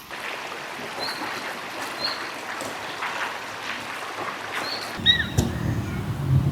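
Steady rushing outdoor noise with a few short, high bird chirps. About five seconds in a low rumble joins and a louder bird call sounds.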